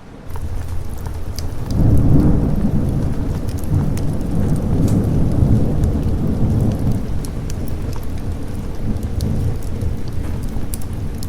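Rolling thunder over steady rain. The deep rumble swells in about two seconds in, is loudest for the next few seconds, then slowly dies away, with scattered raindrop ticks throughout.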